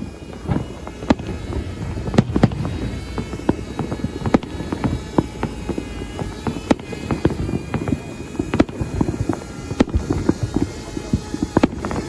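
New Year's Eve fireworks going off in a continuous, irregular barrage: many overlapping bangs and crackles, near and far, with a few louder sharp reports standing out.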